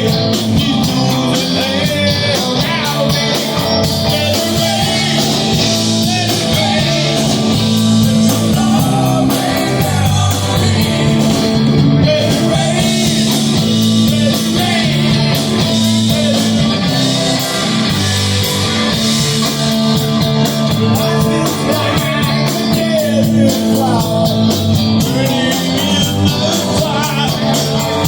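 Rock music: a band playing with guitar and bass under a steady beat.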